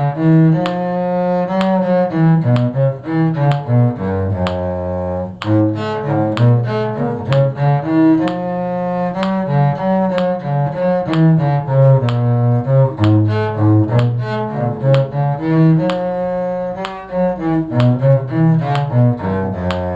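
Bowed string music with a cello prominent, playing a tune in steady time. Each note starts crisply.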